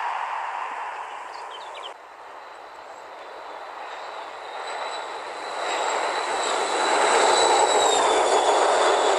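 A passenger train passing close through a station, its rushing rail noise building to a peak as the coaches go by, with a steady high whine that drops in pitch as they pass. About two seconds in, a fading rumble from the previous shot cuts off suddenly.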